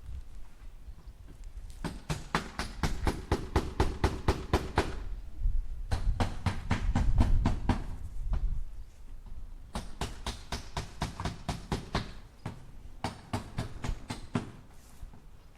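Hammer tapping nails into wood in quick runs of rapid, even strikes, about five or six a second, four runs of two to three seconds each with short pauses between.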